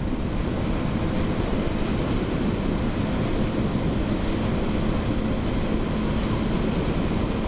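Steady wind rush over the microphone mixed with the drone of a Honda CB500F's parallel-twin engine, cruising at about 120 km/h on the motorway.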